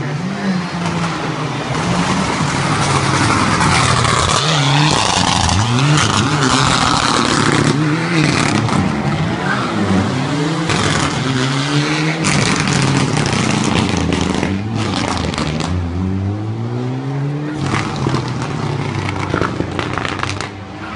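Rally car engine revving hard through the gears, its pitch climbing and dropping again and again as it accelerates and brakes through a tight chicane.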